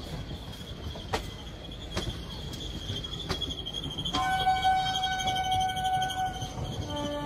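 Passenger coaches of an express train rolling slowly past, a steady rumble of wheels on rail with a few sharp clicks from the rail joints and a steady high whine. About four seconds in, a high-pitched train horn sounds for about two seconds, and a lower horn starts near the end.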